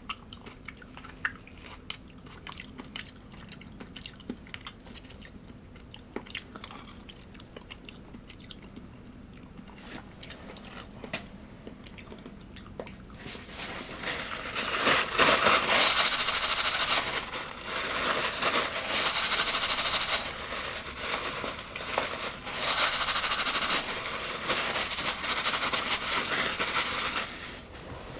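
Close-miked chewing of crunchy food: light clicks and quiet chewing at first, then loud, dense crunching from about halfway through, easing briefly once, then stopping just before the end.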